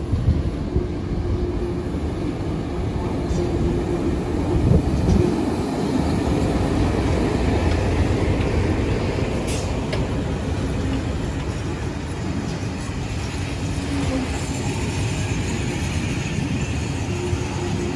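A diesel locomotive passes close by in the first few seconds, its engine note over the rumble. Then a long train of heritage passenger carriages rolls past, with a steady rumble of wheels on the rails.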